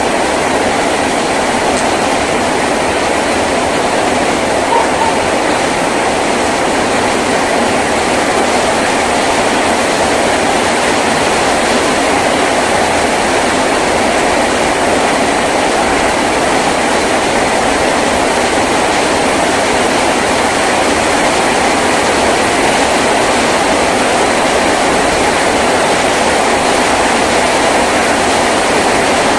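Heavy rain drumming steadily on a tin roof, a dense even downpour with no let-up.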